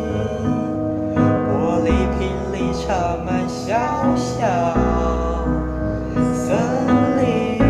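A slow pop ballad: a voice singing, its pitch gliding between notes, over sustained instrumental accompaniment with a deep bass.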